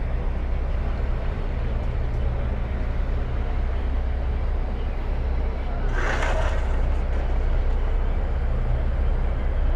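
A tour boat's engine running steadily with a low rumble as it motors in to moor. About six seconds in there is a brief rush of noise, like a splash or spray.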